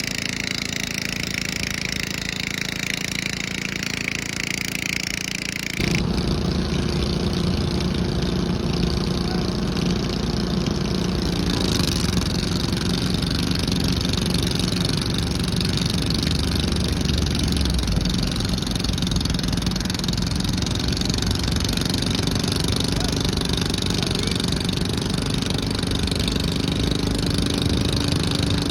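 Garden pulling tractor engine running steadily. About six seconds in the sound switches abruptly to a louder, deeper engine note that holds steady.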